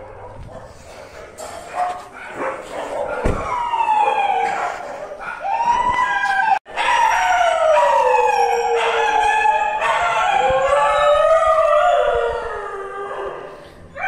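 Dog howling in long wavering wails that slide down in pitch, sometimes overlapping, starting about three seconds in and fading near the end.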